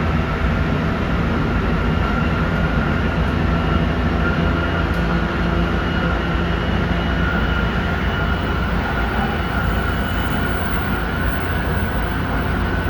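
Tsukuba Express electric commuter train running steadily, heard from inside the car: a constant rumble of the wheels on the rails with a faint steady whine over it.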